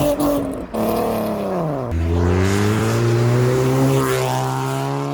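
A car engine revving hard under acceleration. Its pitch dips, drops sharply about two seconds in as at a gear change, then climbs slowly again.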